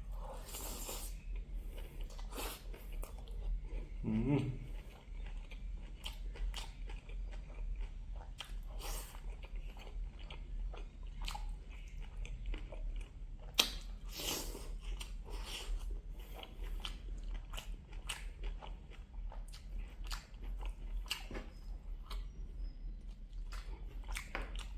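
A person chewing and biting food close to the microphone, pork belly with mustard greens and rice, with many irregular wet smacks and crunches. A short voiced sound, like a hum, comes about four seconds in.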